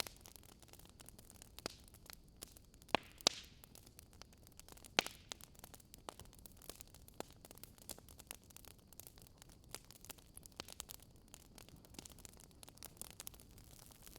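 Wood fire crackling: scattered sharp pops over a steady faint hiss, the loudest about three seconds in and again at five seconds.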